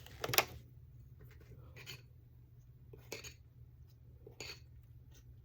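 Light clinks and knocks of household items being handled, four in a few seconds with the first the loudest, over a low steady hum.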